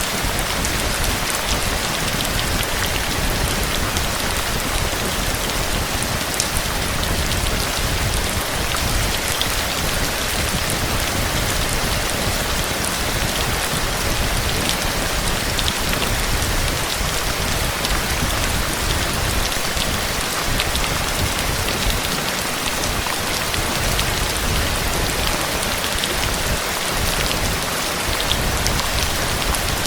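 Steady rain from a storm: an even, unbroken hiss with many small drop ticks and a low rumble underneath.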